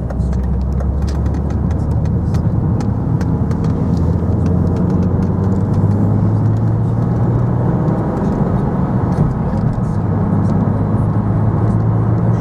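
A car driving along a road, with the steady engine hum and tyre noise. The engine note steps up in pitch about five seconds in.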